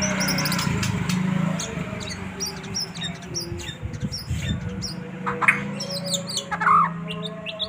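White-rumped shama (murai batu) singing: a run of short, high whistled and chirped notes, with two louder, lower notes near the end. A low steady hum runs under the first two seconds.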